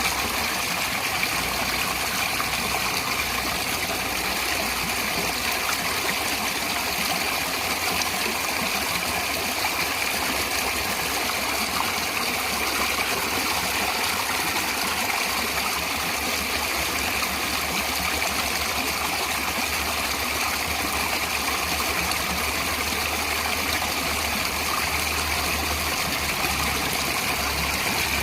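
Natural running water flowing steadily, an even rushing hiss with no breaks or changes.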